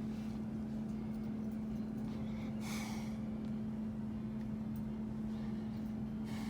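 A steady low mechanical hum, with a brief hiss about three seconds in.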